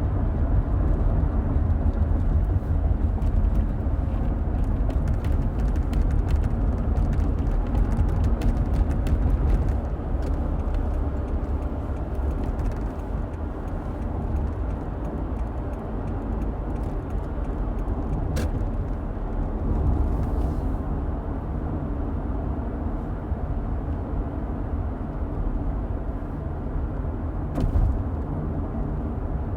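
A car driving: a steady low rumble of road and engine noise, with light clicks and ticks now and then.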